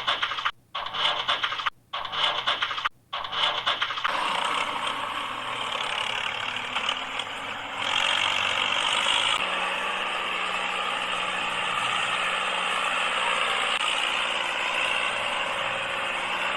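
Small motor of a DIY miniature tractor running with a rattling, mechanical noise. It comes in short chopped bursts at first, then runs steadily, and a low steady hum joins about halfway through.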